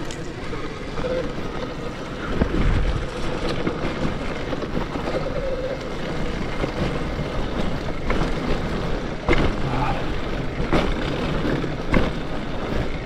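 Riding noise from an electric mountain bike on a trail: wind buffeting the microphone over the rumble of the tyres, with a few short knocks from the bike going over bumps. A faint steady whine runs through the first half.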